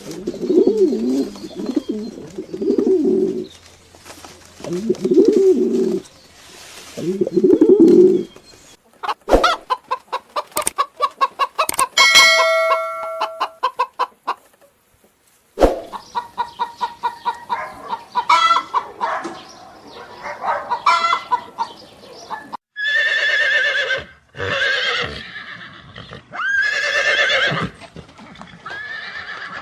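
Pigeons cooing in low repeated calls, then chickens: fast clucking and louder, longer calls toward the end.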